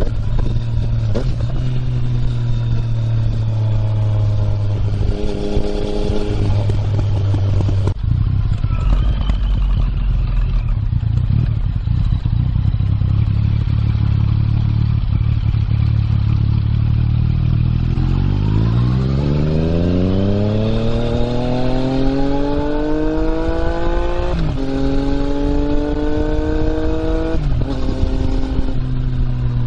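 Yamaha MT-09's 847 cc inline-three with an Akrapovic exhaust, heard while riding. About two-thirds through, the engine pitch climbs steadily under acceleration for several seconds, then drops sharply twice as the rider shifts up.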